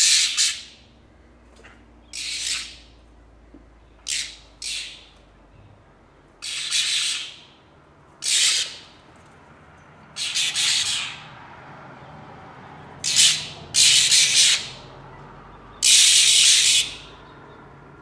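Birds mobbing a cat with harsh, rasping squawks: about ten short calls of under a second each, some in quick pairs or runs, the loudest near the end.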